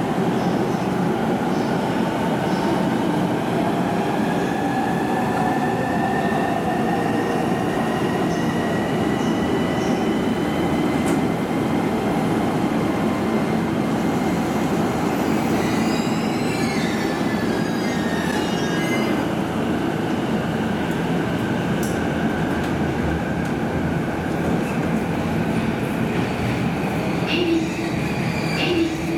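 Electric commuter train running at a station platform: a steady, loud rumble with a faint whine slowly rising in pitch, and brief wheel squeal a little past the middle.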